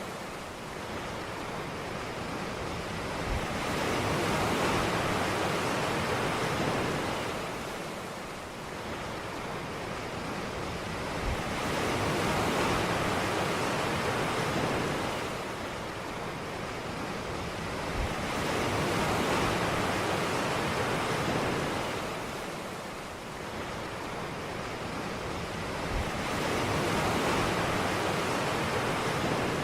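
Ocean waves breaking on a beach: the surf swells and fades in slow surges about every seven to eight seconds, with a soft low thud as each wave begins.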